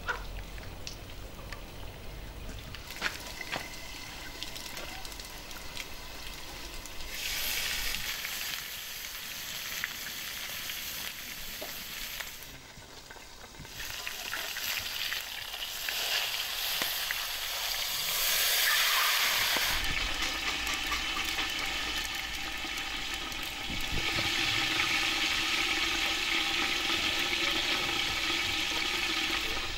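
Food frying over a wood fire: a steady sizzle of hot fat in a pot, heard in several takes of changing loudness.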